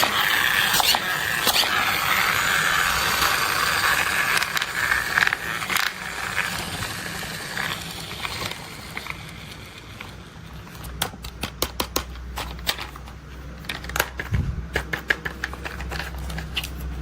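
Toy construction vehicles being handled: a crackling, scraping rush with scattered clicks for the first half, then a run of sharp clicks and taps over a low hum from about ten seconds in.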